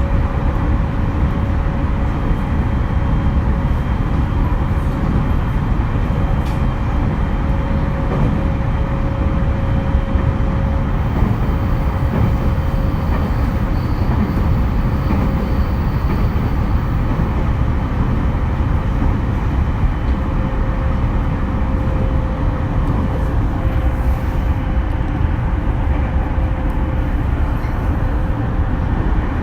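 Running noise of a JR East E231 series electric commuter train, heard from inside the carriage at speed: a steady, loud rumble of wheels on rail with a faint steady whine above it.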